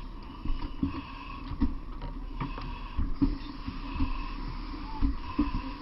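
Steady mechanical drone, such as running fire apparatus, with irregular knocks and bumps scattered through it.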